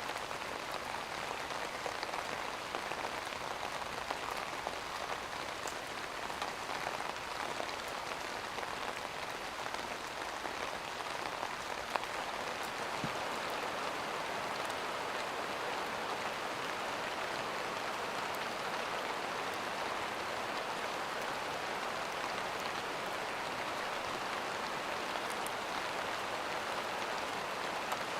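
Steady rain falling on a surface: an even hiss with a few sharper drop ticks.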